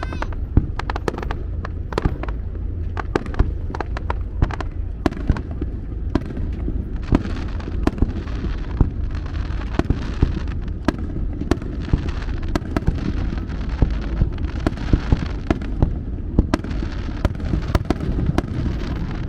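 Fireworks display bursting: a rapid, irregular string of sharp bangs over a steady low rumble, with stretches of hissing crackle from about a third of the way in.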